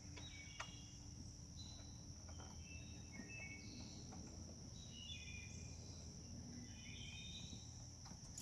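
Crickets chirping in a steady, high, even drone, with short bird chirps in two clusters and one faint click about half a second in.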